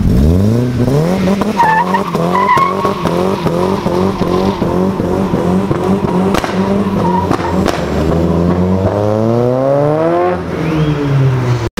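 Drift car's engine revved hard, its pitch rising and falling in quick pulses a couple of times a second while the tyres squeal and skid. Near the end it climbs in one long rising rev that drops off sharply.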